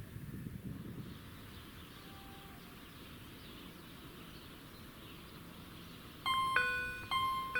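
Level-crossing electronic warning bells start ringing about six seconds in: repeated sharp, ringing dings from two bells slightly out of step, the signal that the crossing is closing for an approaching train. Before that only a faint steady rumble.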